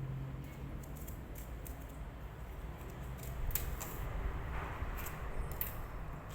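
Scattered sharp clicks and light metallic clinks of surgical instruments being handled, over a steady low hum.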